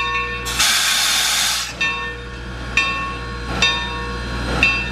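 Steam locomotive's bell ringing, a strike about once a second. A loud hiss of released steam starts about half a second in and lasts about a second.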